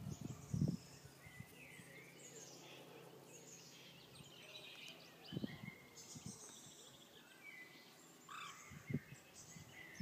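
Songbirds singing and calling, a faint mix of overlapping chirps and short whistles, with a few brief low thumps.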